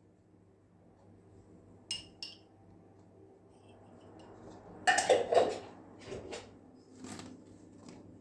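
Dishes and cutlery clinking: two light ringing clinks about two seconds in, then a louder clatter around five seconds, followed by a few softer knocks.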